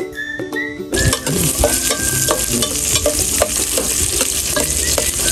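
Food sizzling loudly as it fries in a pan and is stirred, with repeated short knocks of the stirrer against the pan. A whistled tune with ukulele plays for the first second and cuts off as the sizzling starts.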